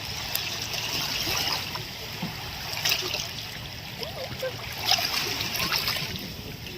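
Shallow seawater lapping and splashing at the shore, with a few sharp splashes.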